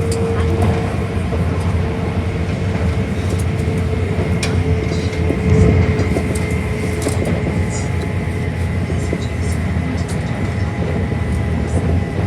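Shinkansen train running, heard from inside the passenger car: a steady rumble of wheels on rail with a faint steady whine, a few light clicks, and a louder rumble about five and a half seconds in.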